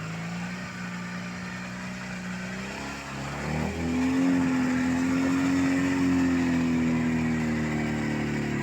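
Engine of a homemade quad bike built from a Ural motorcycle, running at first, then revved up hard about three and a half seconds in and held at high revs, its pitch slowly sagging as it works.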